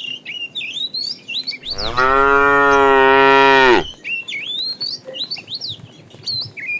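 A cow mooing once, a single long call of about two seconds starting near the second mark. Birds chirp in the background throughout.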